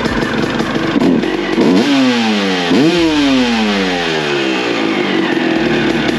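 2003 Suzuki RM250's single-cylinder two-stroke engine running after a head gasket replacement. It is blipped twice, about 2 and 3 seconds in, and each time the revs jump sharply and then fall away slowly back to idle.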